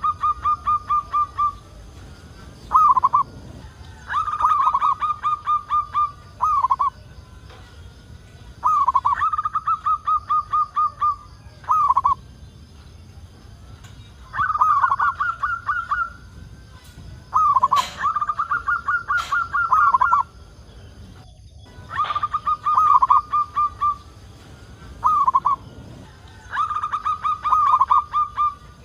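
Zebra dove (perkutut) singing: about seven phrases of rapid staccato cooing notes, each lasting about two seconds and repeated every four to five seconds, most followed by a short single note.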